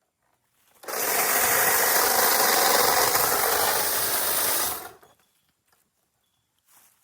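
Small power saw running in one burst of about four seconds, cutting into a tree limb during trimming.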